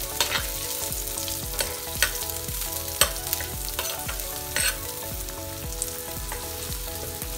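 Sliced onions, green chillies, ginger and curry leaves sizzling in hot coconut oil in a clay pot, stirred with a metal spoon that knocks and scrapes against the pot several times. The aromatics are being sautéed until soft, not browned.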